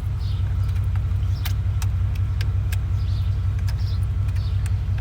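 Old GMC farm truck engine idling steadily, with a low even rumble and a few light clicks over it. It is running on with the key turned and pulled out of the ignition and will not shut off.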